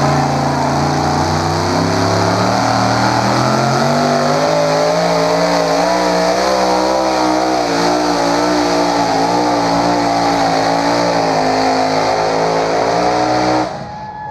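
Pulling tractor's high-horsepower engine running hard under load, its pitch climbing over the first few seconds, then holding high with a wavering note. It stops abruptly near the end.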